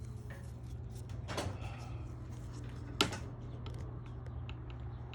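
Hand work on a Genie garage door opener's carriage and rail: a short scrape, then one sharp click or knock about three seconds in and a few lighter clicks, over a steady low hum.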